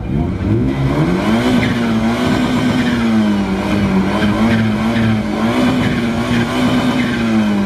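Car engine revved hard from low revs and held at high revs through a loud, tuned exhaust. The pitch climbs over the first second or so, then wavers slightly while it is held.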